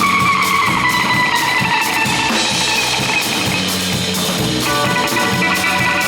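Live psychedelic cumbia band playing with a steady drum beat. A held note slides slowly down in pitch over the first two seconds, and a new sustained chord comes in near the end.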